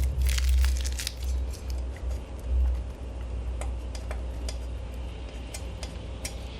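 Protective plastic film being peeled off the metal parts of a fire pit, with scattered crackles and light metallic clinks as the parts are handled, over a low rumble that is strongest in the first three seconds.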